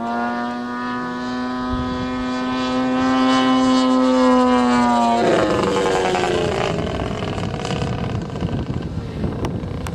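Model-aircraft ZDZ 100 inline twin gasoline engine running at a steady high pitch in flight, then cutting out abruptly about five seconds in: the engine dying mid-flight. Afterward only a rushing noise remains, with a brief fading whine.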